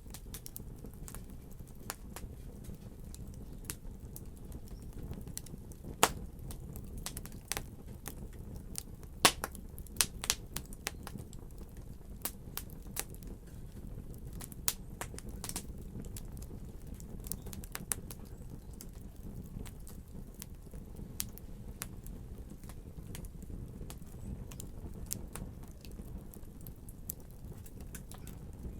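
Wood fire crackling: irregular sharp pops and snaps over a steady low rumble of burning, with a few louder pops around a third of the way in.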